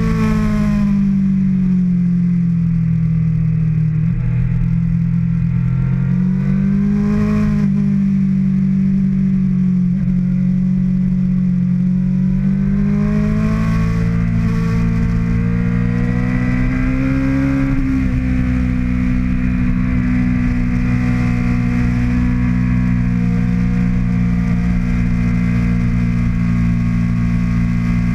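2013 Kawasaki ZX-6R 636 inline-four engine running: revs fall at first, rise briefly, climb steadily, then drop and hold at an even pitch for the last ten seconds.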